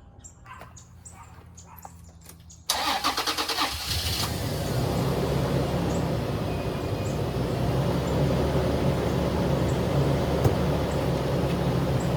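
Toyota 4Runner's engine cranked by the starter for about a second and a half, about three seconds in, then catching and settling into a steady idle. It starts after a little gas is added, showing the crank-no-start was just an empty fuel tank.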